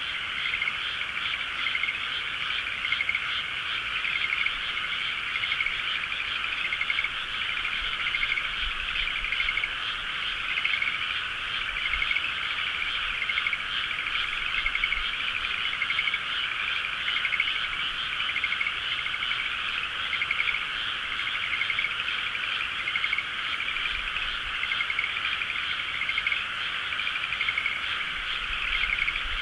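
A dense chorus of many frogs calling at once, steady and unbroken, a thick mass of overlapping pulsed calls.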